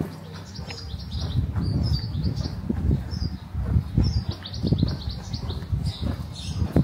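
Small birds chirping in short falling notes, over an irregular low rumble and thudding that is the loudest sound.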